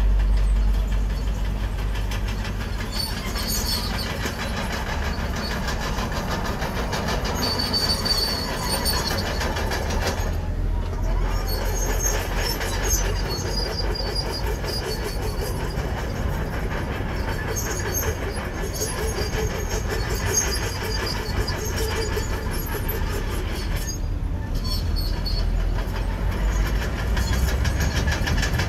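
Komatsu crawler bulldozer working, its diesel engine running under a steady low rumble while the steel tracks squeal and clank continuously. The sound drops out briefly twice, about ten seconds in and again near the end.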